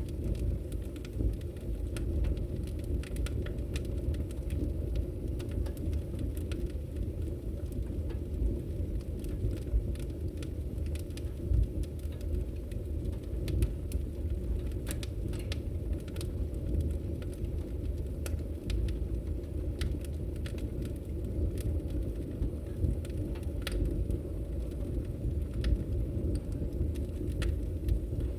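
Wood logs burning in a fireplace: frequent sharp crackles and pops at irregular moments over a steady low rumble.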